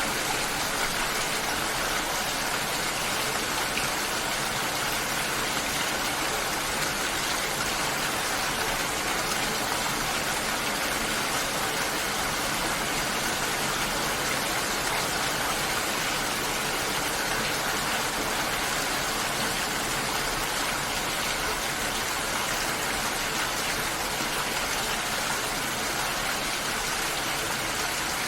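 Steady, unbroken water noise: a dense, even hiss with no distinct drops or pauses.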